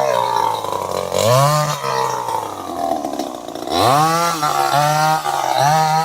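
Chainsaw engine being revved repeatedly, its pitch rising and falling in quick blips. A lower, steadier stretch comes about a second in, then brisk revs again from about four seconds.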